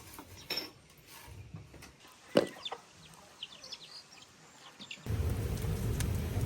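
Chickens clucking with light chirps, and one sharp knock about two and a half seconds in. About five seconds in, a steady low rushing noise sets in suddenly.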